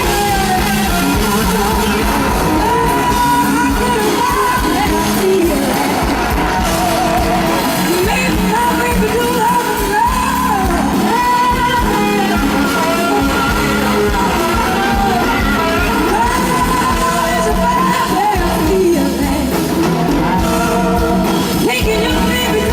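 Live blues-rock band playing a slow blues at full volume, with a high lead line that bends and slides in pitch over the band.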